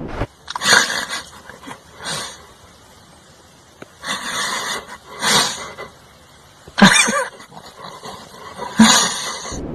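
An animal vocalising in about six short calls, spaced a second or two apart with quiet between them.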